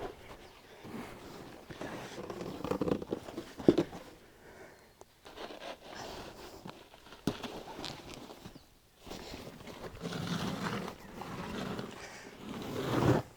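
Irregular scraping and rubbing with a few sharp knocks: a cut, old tractor tire being worked off a rusty steel rim.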